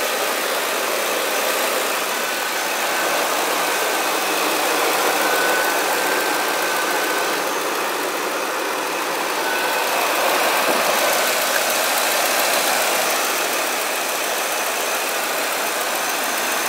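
2003 Ford Expedition's 5.4-litre Triton V8 idling steadily, heard close up under the open hood.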